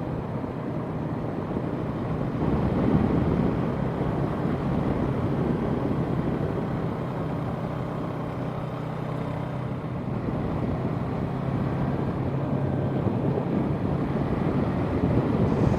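Yamaha parallel-twin sport bike engine running steadily at cruising speed, heard from the rider's position over a rush of wind and road noise.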